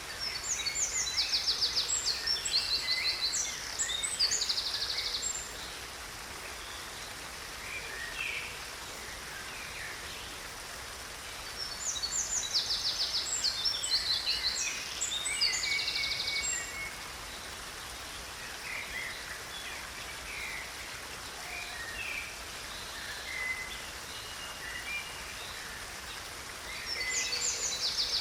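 Steady rushing of a small stream, with songbirds singing in bouts of rapid, high trilled notes: one just after the start, another about halfway, and a third near the end, with scattered single chirps between.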